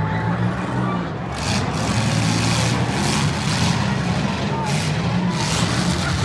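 Demolition derby cars' engines running loudly in a steady low drone, with several short bursts of noise over it.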